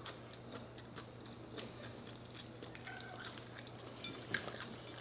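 Quiet chewing, with scattered small clicks and taps from crab legs and shells being handled.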